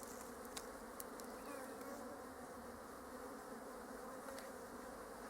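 Honey bees buzzing steadily around an open hive, with a few faint clicks.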